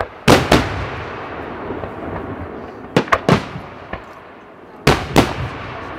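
Fireworks shells bursting overhead in clusters of two or three sharp bangs, about half a second in, around three seconds and near five seconds, each cluster trailing off in a rolling echo and crackle.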